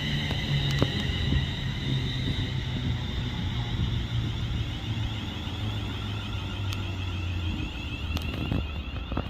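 Train at a station platform, running with a steady low engine hum and a high whine above it, with a few faint clicks.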